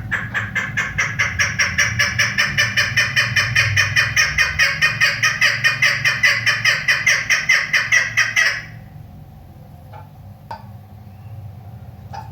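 Female chukar partridge (chakor) giving a fast, even run of repeated calls, several a second, that stops abruptly about eight and a half seconds in; a few faint clicks follow.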